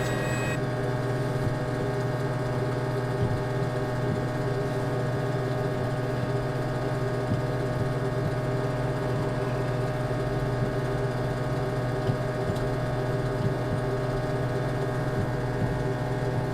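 A machine running steadily at a constant speed: a low hum with several fixed tones that stays the same throughout.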